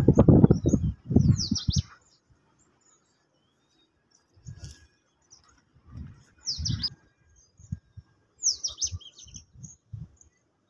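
Small birds chirping: quick falling chirps in short clusters, heard three times. Irregular low rumbles and thumps come and go, loudest in the first two seconds.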